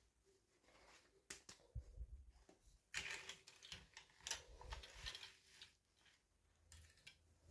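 Faint handling sounds from a toy unboxing: small clicks and taps with light rustling, busiest from about three seconds in to about five and a half, then trailing off.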